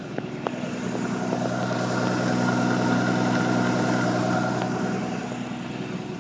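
A 1989 Celebrity ski boat's 4.3-liter Chevy V6 stern-drive engine running steadily in forward gear, showing that the drive's lower unit engages. Its hum swells a little about two seconds in and eases off again near the end, with a couple of light clicks just after the start.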